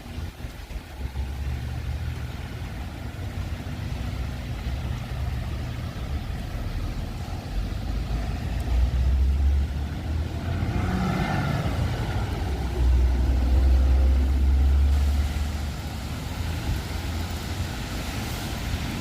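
Wind buffeting the microphone: a low rumble that swells in gusts, loudest about two-thirds of the way through, with a brief higher sound passing about eleven seconds in.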